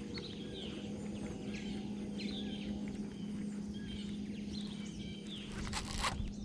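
Birds chirping in short repeated calls over a steady low hum, with a few sharp clicks or knocks near the end.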